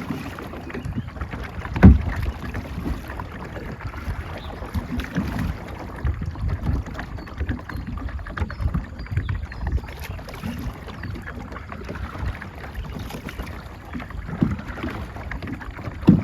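Wind buffeting the microphone on a moving boat, an uneven low rumble with water noise, broken by a loud knock about two seconds in and another near the end.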